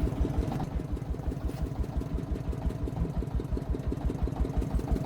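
Single-cylinder diesel engine of a công nông agricultural vehicle running steadily, with an even beat of about nine firings a second.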